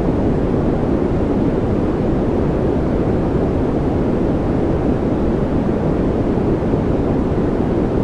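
Continuous white-noise track: a steady, deep rushing hiss with no rhythm, tone or change, its weight in the low range and little top end.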